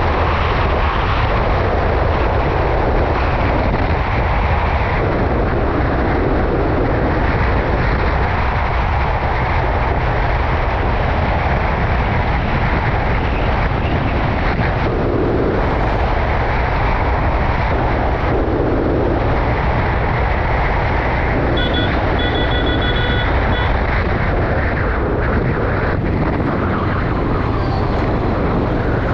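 Steady wind rush with engine and road noise from a moving motorcycle. About three-quarters of the way through there is a short pitched beeping, about two seconds long.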